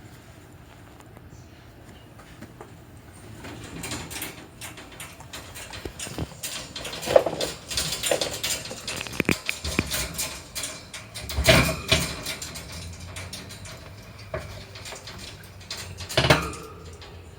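A Bengal cat coughing in harsh, hacking fits, loudest about seven, eleven and sixteen seconds in, with rustling between; a cough the owner feared was feline asthma or cat flu.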